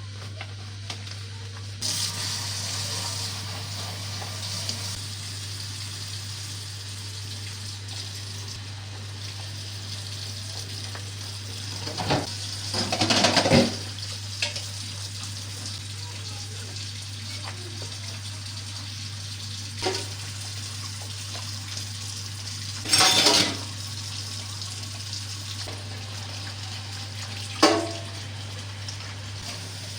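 Water running at a kitchen sink with dishes and pans clattering, a few louder knocks and clinks around the middle and near the end, over a steady low hum.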